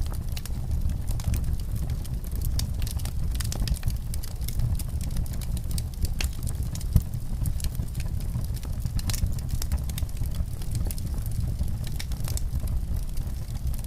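Fireplace fire crackling, with frequent small irregular pops over a steady low rumble.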